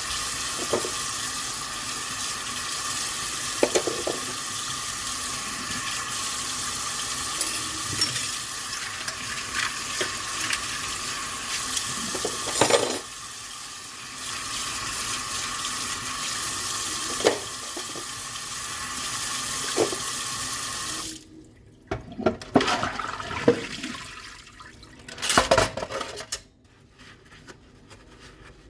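Kitchen tap running steadily into a sink during dishwashing, with occasional clinks of dishes. The water cuts off suddenly about three-quarters of the way through, followed by a few seconds of irregular clattering and knocks of dishes being handled.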